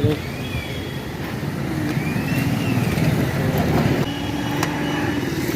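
Street traffic noise: motor vehicle engines running, with a couple of short high-pitched tones that rise and fall.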